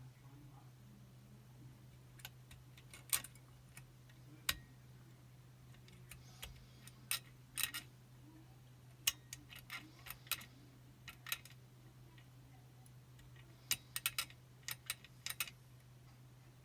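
Small, irregular metallic clicks and taps from a picking wire and tension tool working the levers inside a Chubb Detector five-lever lock, some in quick clusters, over a faint steady low hum.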